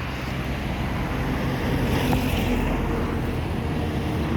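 Airliner's jet engines at takeoff power, heard from a distance as a steady rushing noise with a faint hum underneath.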